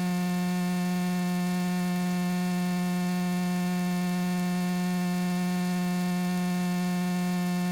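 Steady electrical hum in the aircraft intercom's audio feed: a single unchanging buzzing tone with many overtones, which cuts off suddenly near the end.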